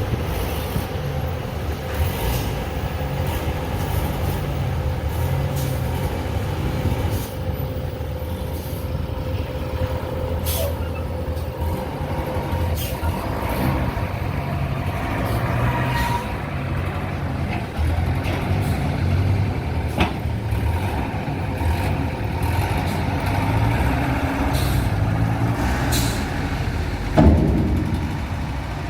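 A heavy vehicle's engine running steadily with a low, pulsing rumble, with scattered sharp clicks and knocks and one louder knock near the end.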